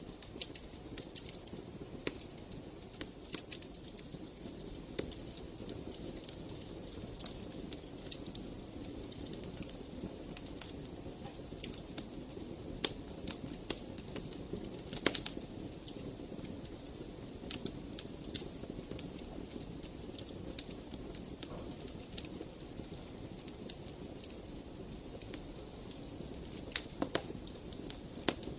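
Wood fire burning in a fireplace: a steady low hiss of the flames with frequent sharp, irregular crackles and pops.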